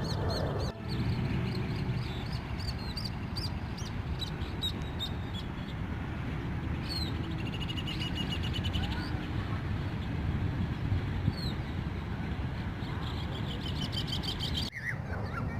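Several birds chirping with short, repeated high notes, one giving a brief buzzy trill about halfway through, over a steady low outdoor rumble.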